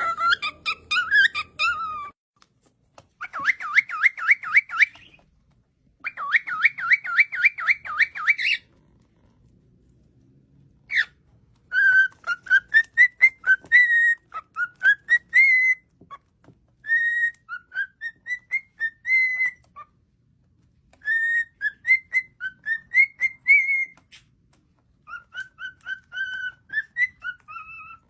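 Cockatiel whistling: two runs of rapid trilled chirps, then phrases of short, rising whistled notes with brief pauses between them.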